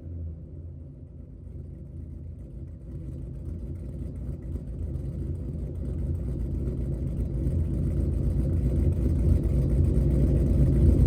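Boosted Ram pickup's engine running through a new true-dual exhaust with Flow FX mufflers and resonators: a steady, deep exhaust tone that grows gradually louder.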